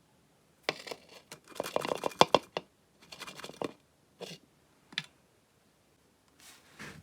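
Small hard parts being handled: irregular clatters, scrapes and sharp clicks in several short bursts, busiest between about one and three seconds in.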